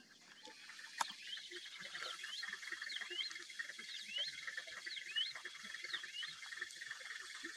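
Birds singing: one bird repeats a short upward-sweeping whistle about once or twice a second over a steady high chorus, with a sharp click about a second in.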